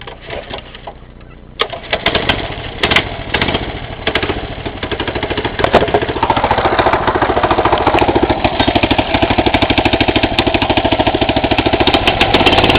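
Small 6 hp Mitsubishi engine on a mini bike, running low and rough, then opened up suddenly about a second and a half in and held at a steady fast speed with an even firing rhythm. This is an engine that won't idle.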